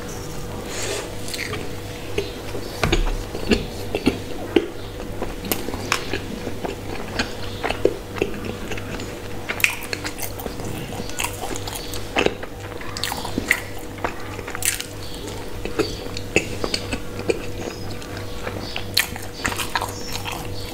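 Close-miked eating: biting and chewing soft bread bun with fried chicken, with irregular wet mouth clicks and smacks, over a faint steady hum.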